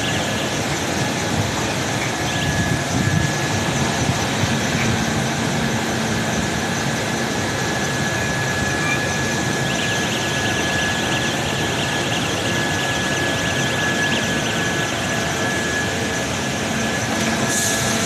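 Heavy construction machinery running steadily, a dense mechanical noise with a thin high whine held through it.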